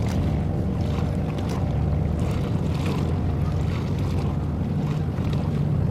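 Steady low drone of boat engines, with wind on the microphone.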